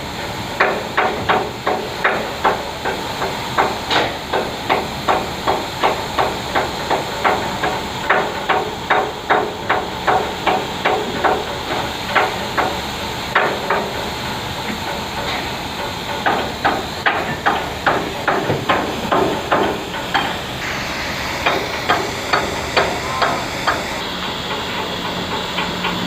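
Hammers striking steel in quick, repeated blows, about two to three a second, with a ringing metallic note. The blows thin out for a spell about two-thirds of the way through, over a steady hiss and machine hum.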